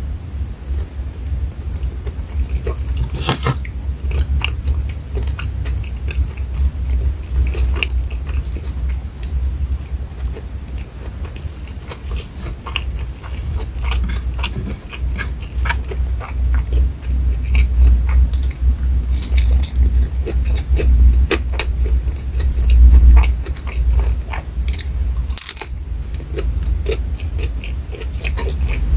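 Close-miked chewing and biting of a mouthful of rice with fried shrimp and sambal matah: many wet mouth clicks and small crunches over a steady low rumble.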